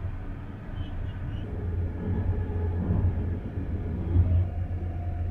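Steady low rumble of a moving bus, heard from inside the cabin.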